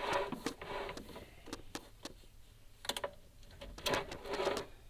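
Irregular scraping and knocking of a chimney inspection camera and its cable being lowered down a clay flue tile liner, with short clicks and a few longer rubbing scrapes near the start, about three seconds in and near the end.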